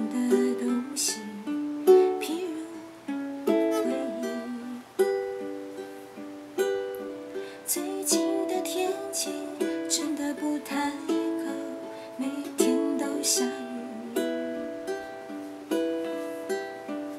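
Ukulele strummed in a steady rhythm, each chord ringing out and fading before the next.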